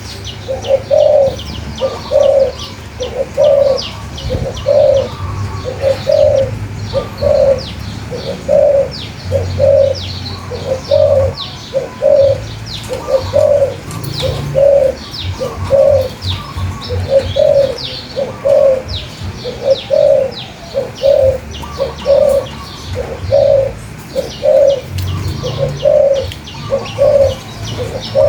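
A dove giving a long, even series of low cooing notes, about one a second, over many thin, high chirps of small songbirds.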